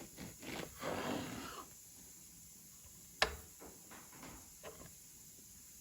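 Kitchen food-preparation handling noise: a few rasping, scraping strokes in the first second and a half, then a single sharp click a little after three seconds in.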